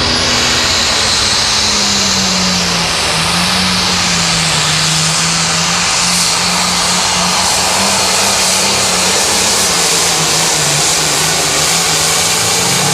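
Turbocharged diesel engine of an International pulling tractor at full throttle under load during a pull, a loud steady engine note whose pitch sags a little a few seconds in as the load builds, then holds.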